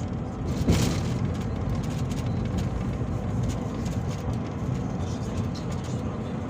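Peugeot Boxer minibus driving, heard inside the passenger cabin: steady low engine and road rumble, with one thump about a second in.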